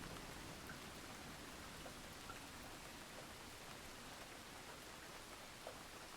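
Faint, steady rain hiss with a few scattered drop ticks, as a thunder rumble dies away at the start.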